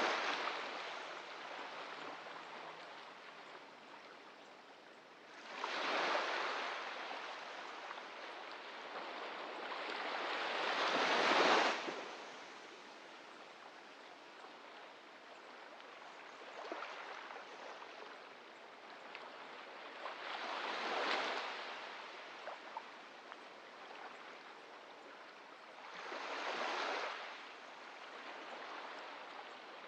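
Small waves breaking and washing up on a beach, a steady hiss of surf with a louder swell every few seconds as each wave comes in, about four in all.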